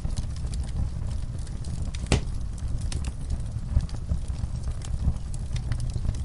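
Wood fire burning in a fireplace: a steady low rumble of flames with scattered sharp crackles and pops from the logs, one louder pop about two seconds in.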